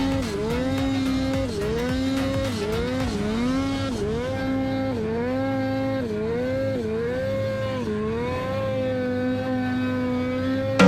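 Snowmobile engine revving on and off the throttle, its pitch dipping and climbing back several times, then holding steady at high revs for the last couple of seconds.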